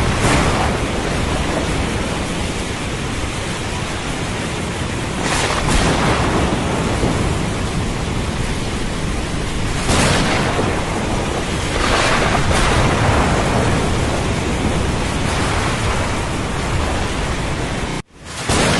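Thunderstorm: steady heavy rain with thunder swelling several times, around 5, 10 and 12 seconds in. The sound cuts out abruptly for an instant near the end, then resumes.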